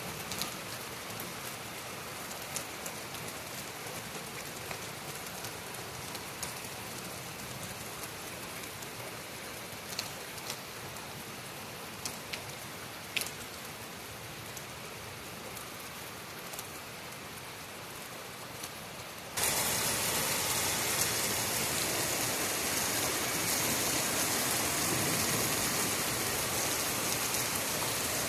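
Heavy rain falling steadily, with scattered sharp drops ticking over the hiss. About two-thirds of the way through, the rain suddenly becomes louder and brighter and stays that way.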